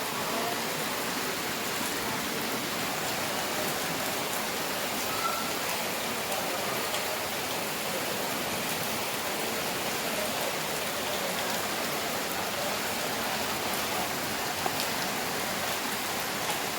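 Heavy rain falling steadily: an even hiss of water with a few sharp drop ticks.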